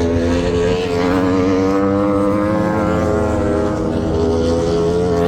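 Racing superbike engines at high revs, a loud steady multi-tone engine drone whose pitch wavers slightly. A higher whine rises briefly about a second in.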